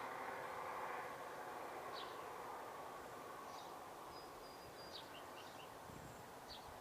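Small birds chirping now and then, with one thin, high whistle held for about a second near the middle. Underneath is a soft rush of outdoor background noise that fades away over the first second or so.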